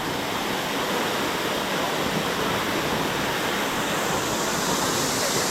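A waterfall pouring steadily: an even, unbroken rush of water.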